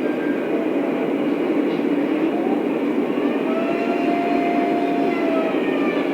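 Lionel O-scale model trains running on the track with a steady rolling rumble. Thin squealing tones rise and fall over it, one held for more than a second about halfway through.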